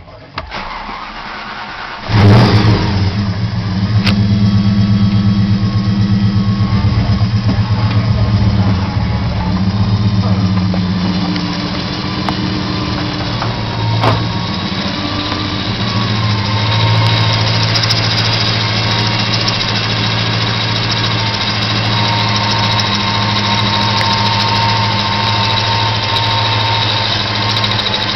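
Holden VN Commodore SS 5.0-litre V8 firing up about two seconds in, then running at a steady idle through a 3-inch exhaust.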